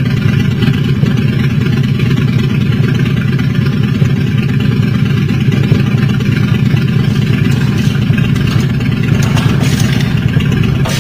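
Motorcycle engine running steadily, close by, with no change in speed.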